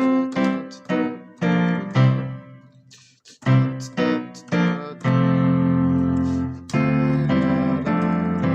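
Digital keyboard on a grand piano voice layered with a second voice, playing a gospel-style chord progression in C: a run of quick struck chords, a short pause about three seconds in, then long held chords.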